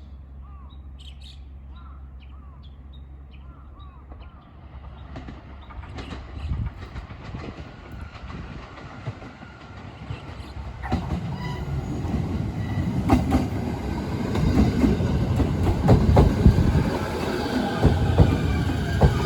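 Train pulling into the station, its rumble building steadily and loudest near the end. Wheels clack over rail joints and screech in the last several seconds. Faint bird chirps come before the train is heard.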